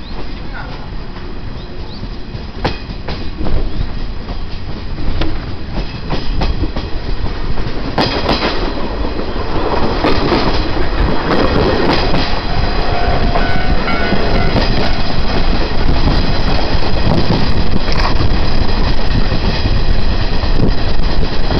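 Train running on the rails, its wheels clicking over rail joints, the rumble growing steadily louder over the last half or so.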